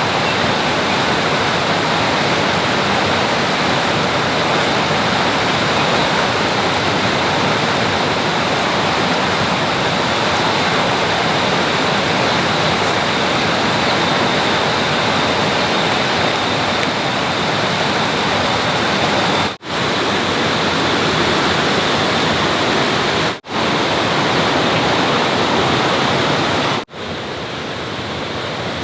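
Steady, loud rushing of water, with a faint high steady tone above it. The sound cuts out briefly three times in the second half.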